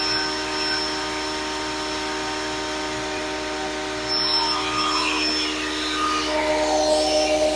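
Grizzly G0958 8-inch jointer-planer combo running steadily as a planer, a constant machine hum under a haze of cutterhead and air noise that grows a little louder and brighter about four seconds in.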